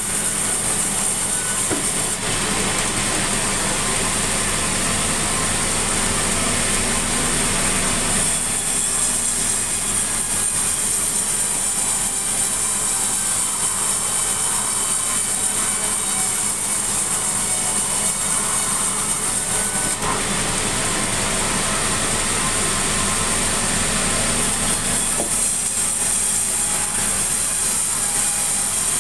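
Sawmill machinery running steadily while sawing sengon (albizia) timber: a low engine drone under a high hiss, changing in tone several times.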